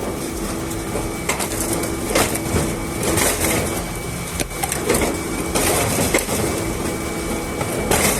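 Firewood splitting machine forcing logs apart on its blades: wood cracking and splintering in irregular sharp cracks over the machine's steady hum.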